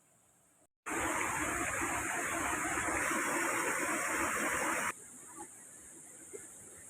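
A steady, even rush of water that starts abruptly about a second in and cuts off abruptly near the five-second mark, leaving a quieter, steady background.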